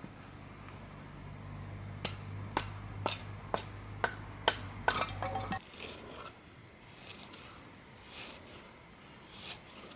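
A run of seven sharp knocks or clinks, about two a second, like utensils or cookware being handled. A low steady hum underneath cuts off suddenly about halfway through.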